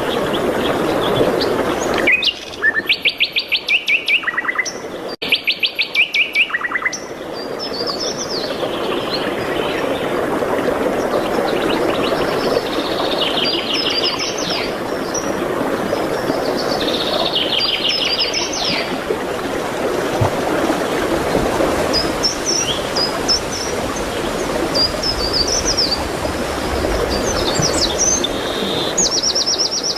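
Wild songbirds singing, with rapid trilled phrases of quickly repeated notes, over a steady rushing background. Two loud trills come about two to seven seconds in, while the background drops away, and further trills follow every few seconds.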